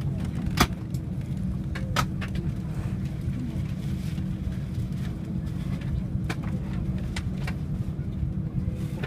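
Steady low cabin hum inside an Airbus A330-300 airliner before take-off, with a faint constant tone, broken by a few sharp clicks, the loudest about half a second in.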